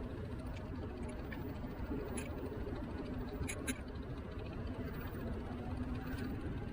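Niu KQi3 Pro electric scooter riding along a road: a steady low rumble of wind and tyres with a faint steady hum. A few sharp clicks of something rattling, two of them close together about halfway through.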